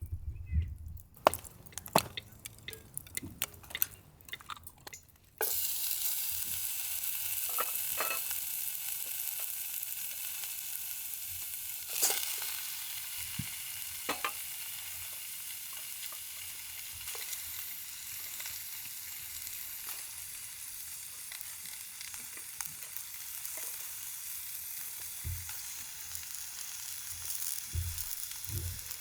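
A few clicks and knocks, then food starts sizzling suddenly in a hot pan about five seconds in and keeps frying steadily, with an occasional knock.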